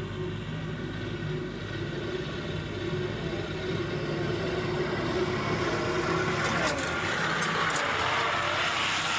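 Heavy diesel engine running steadily. In the last few seconds a louder rushing, clattering noise builds over it.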